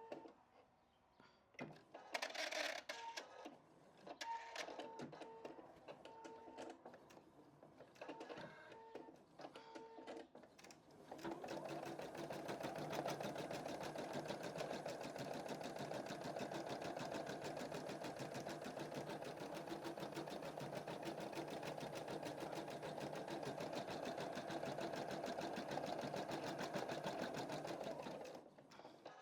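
Computerised embroidery machine at work. For the first ten seconds or so it makes short stop-start whirring moves with clicks. Then it settles into steady, rapid needle stitching that stops shortly before the end.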